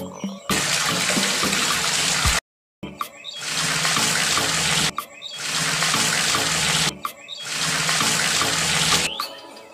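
Wet concrete pouring out of a miniature concrete mixer's drum and splashing onto a small metal chute, heard as a rushing, watery pour. It comes in four stretches of about two seconds each, with a sudden short break of silence a little over two seconds in.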